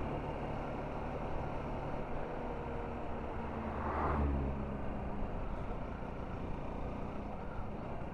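Motorcycle engine running steadily at low speed, with wind noise on the microphone. A brief swell of noise comes about four seconds in.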